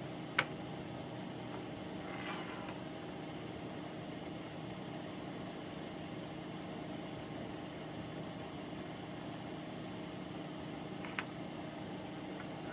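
Steady low machine hum, with a sharp click about half a second in and another near the end, and a brief rustle about two seconds in.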